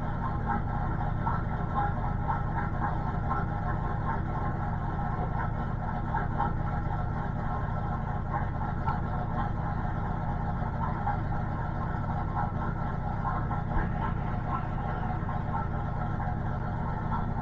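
Fox-body Mustang's turbocharged 351 Windsor V8 running at idle, a steady low rumble.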